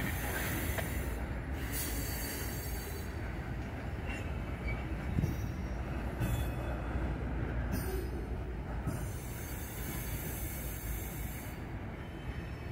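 A freight train of BNSF covered hopper cars rolling past on the track: a steady rumble of steel wheels on rail, with faint, brief wheel squeals near the start and again about four seconds in.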